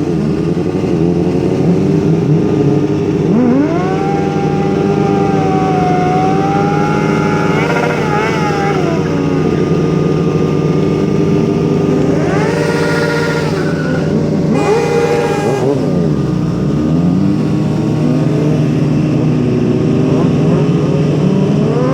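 Engines run under a steady drone, and one engine revs up hard, holds high revs for a few seconds, then drops back, three or four times over.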